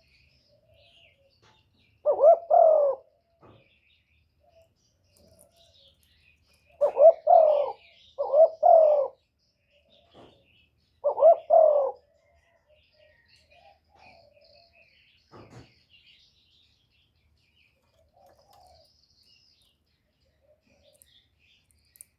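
Spotted dove (cu gáy) giving its bowing coo, the 'cu gù' call used as a lure for wild doves. There are four low cooing phrases, each a short note followed by a longer one, and faint chirps from small birds in between.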